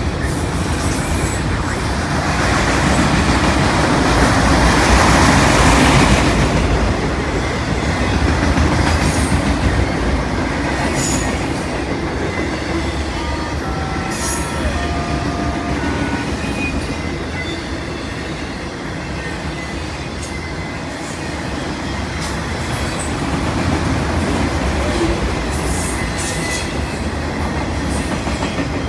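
CN freight train cars rolling past with a steady rumble and wheel clatter, loudest early on, with a few brief high wheel squeals about halfway through.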